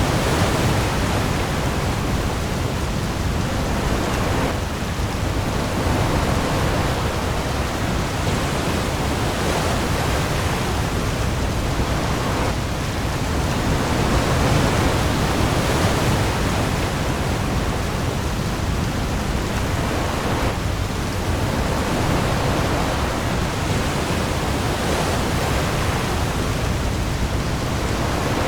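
Heavy rain falling on the sea, mixed with waves, as a dense steady hiss with a low rumble beneath. It eases and swells gently every several seconds.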